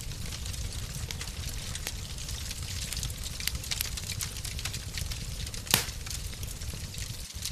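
Wood fire in a fireplace burning with a low, steady rumble and irregular small crackles, and one louder pop a little before the end.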